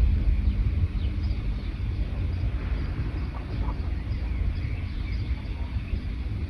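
Many small birds chirping faintly in a forest, with short scattered calls, over a louder steady low rumble.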